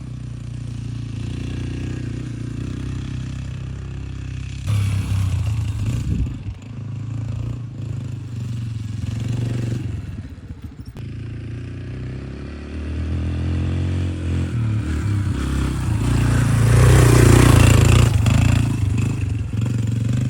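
Yamaha TT-R125 dirt bike's four-stroke single-cylinder engine running as it is ridden, its note rising and falling with the throttle. The loudest stretch is a rising rev a few seconds before the end.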